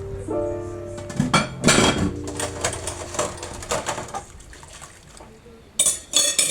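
Dishes and cutlery clinking and clattering, in clusters about a second in and again near the end, over soft background music chords that fade after the first couple of seconds.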